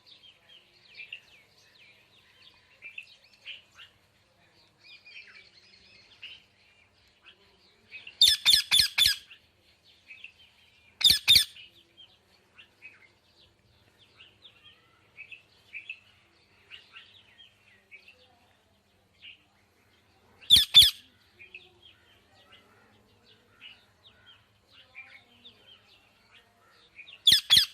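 A parrot chirping and chattering softly throughout, broken by loud, harsh squawks: a quick run of several about a third of the way in, single squawks shortly after and about two-thirds in, and another at the very end.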